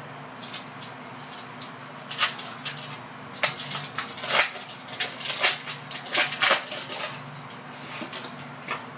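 Trading cards and their foil pack wrappers being handled: an irregular run of quick rustles, flicks and clicks, busiest through the middle, over a faint steady hum.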